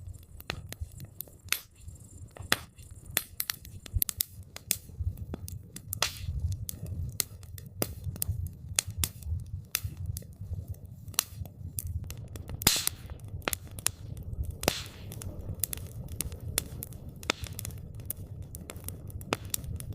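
Wood campfire crackling and popping irregularly, with many sharp snaps and a couple of louder pops, over a steady low rumble of the flames.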